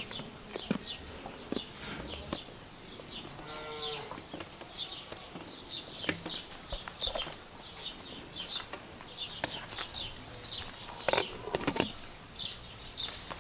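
Outdoor ambience of a bird chirping over and over, about twice a second, over a faint steady high insect drone, with a short animal call about four seconds in. Near the end comes a quick pair of sharp clinks as a glass-and-metal pot lid is set onto the cooking pot.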